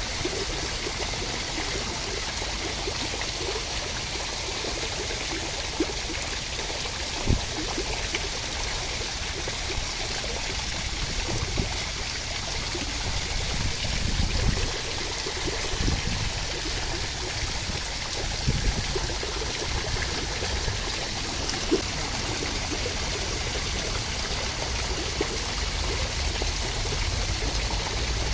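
Steady rain with water trickling, and a few brief, louder splashes here and there.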